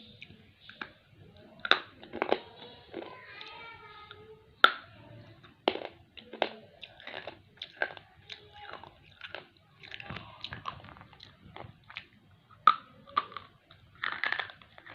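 Slate pencil being bitten and chewed, with sharp, irregular crunches and grinding between bites.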